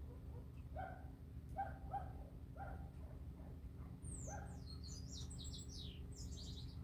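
Birds calling: a short call repeats about once a second, and from about four seconds in a bird sings a quick run of high, falling notes, over a steady low hum.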